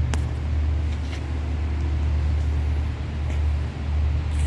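Steady low rumble of a motor running, with a few faint clicks near the start and end.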